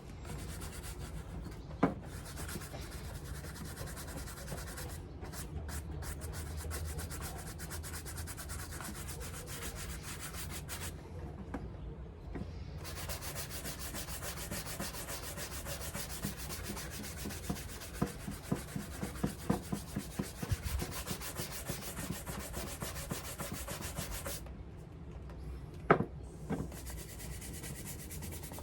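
Rapid hand strokes of shoe polishing, a brush or cloth rubbing over the leather of a Paraboot Michael shoe, with a couple of sharp knocks, one near the start and one near the end.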